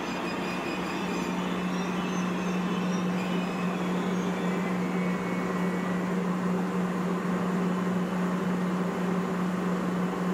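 DB ICE train at the platform giving off a steady low electrical hum, over the even noise of the underground station hall. It gets slightly louder after about a second.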